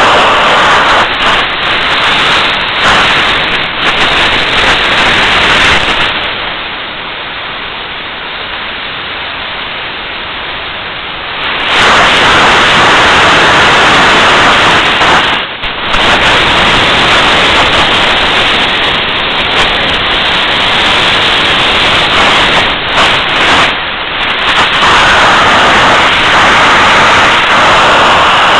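Homemade jet engine running on a test stand with a loud, steady rush of noise. About six seconds in it drops noticeably quieter for roughly five seconds, then comes back up to full noise, with a couple of brief dips later on.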